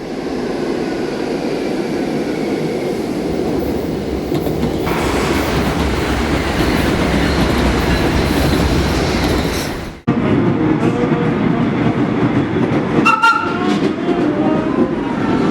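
Vintage R1-9 subway car running on the line, a steady rumble with wheels clattering over the rail joints. The sound cuts off sharply and resumes about ten seconds in, and a brief high-pitched tone sounds a few seconds later.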